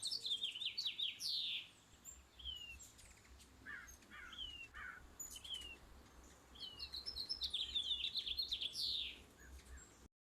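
Small birds chirping: quick runs of high twittering notes at the start and again around seven to nine seconds in, with single short down-slurred chips between. The sound cuts off near the end.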